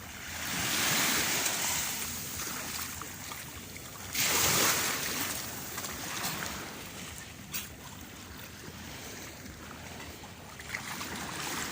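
Small sea waves washing in at the shore: a steady wash with two stronger surges, one about a second in and a sharper one about four seconds in.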